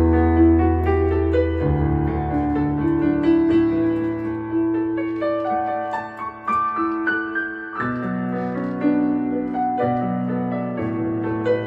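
Yamaha MX61 synthesizer playing a piano voice: held chords over a bass line, with a melody that steps upward through the middle and chord changes about two, eight and ten seconds in.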